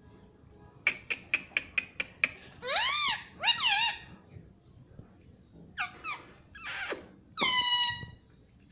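Pet parrot calling: a quick run of about eight sharp chirps, then two arched squawks, and a few more calls ending in one longer call that falls in pitch.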